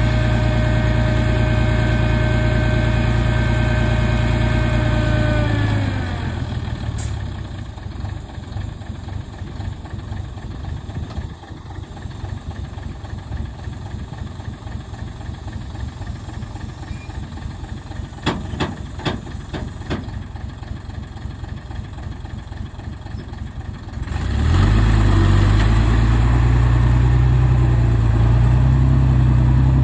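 Heavy construction machine's diesel engine running at steady high revs, then dropping in pitch to a lower, rougher rumble about six seconds in. A few sharp clicks come near the middle, and about twenty-four seconds in the engine revs up again and runs loud and steady.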